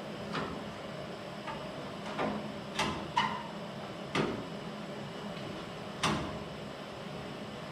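A handful of irregular knocks and clicks from parts and tools being handled during bodywork, one of them ringing briefly, over a steady hum.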